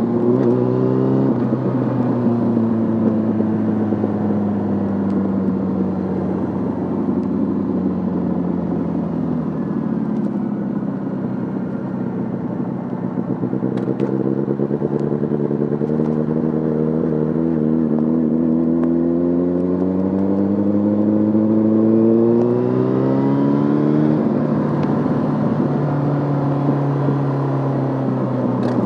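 Yamaha Fazer 600's inline-four engine running through a handmade exhaust while riding. The engine note falls steadily for about ten seconds as the revs drop, then climbs for about twelve, dips briefly near the end and rises again.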